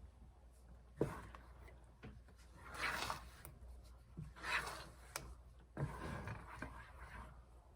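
Kitchen handling sounds while cooking. There is a sharp knock about a second in and another near six seconds, with rustling or scraping swells in between at about three and four and a half seconds.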